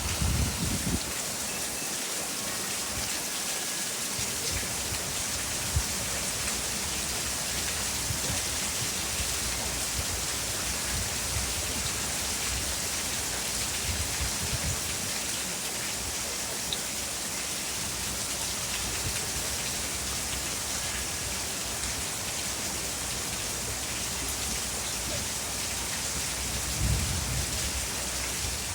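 Steady heavy rain, a dense even hiss of falling drops, with low rumbles about a second in and again near the end.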